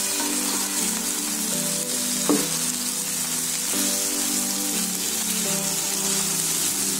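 Potato cubes and liver in a thick chilli and coconut-milk sauce sizzling steadily in a wok as a slotted spatula stirs them, with one sharper knock of the spatula about two seconds in.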